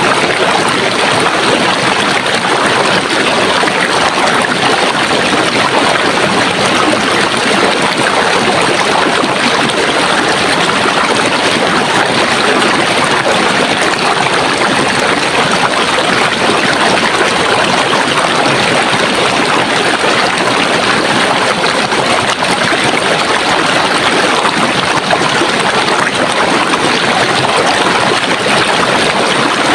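Running water in a stream, a steady, loud rush with a fine splashing texture and no breaks.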